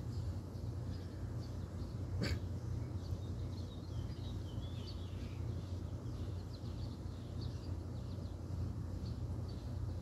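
Faint, short bird chirps from about three seconds in, over a steady low rumble, with one sharp click about two seconds in.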